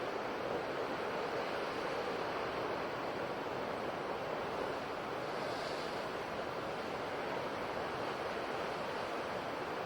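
Ocean surf washing steadily onto a shore, a continuous rush of breaking waves with no distinct single crash.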